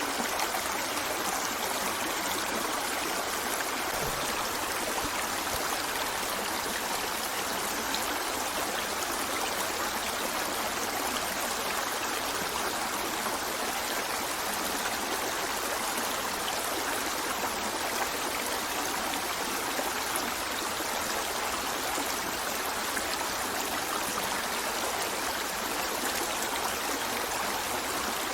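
River water flowing over rocks in a steady, even rush, with a light trickle and gurgle running through it.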